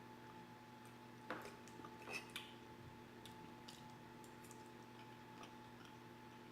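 Faint eating sounds: a few soft clicks and a squish between one and two and a half seconds in, from chewing and utensils, over a steady low hum.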